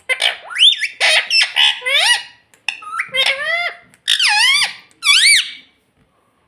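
Indian ringneck parakeet calling: a run of about eight short, high-pitched calls, each rising and falling in pitch, stopping about five and a half seconds in.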